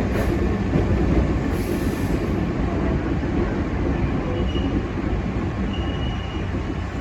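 Hankyu Imazu Line electric train running along the track, a steady rumble of wheels and running gear, with two brief high wheel squeals in the second half.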